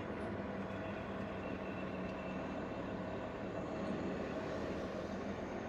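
Semi-truck's diesel engine running steadily, with an even, unchanging hum.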